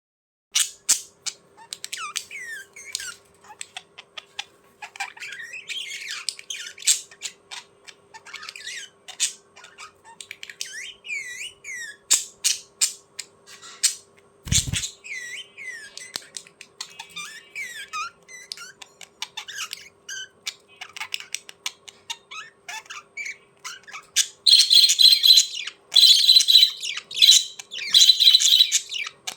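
Small birds chirping and squawking in quick calls that sweep up and down, growing denser and louder near the end. A faint steady hum runs underneath, with a single low thump about halfway through.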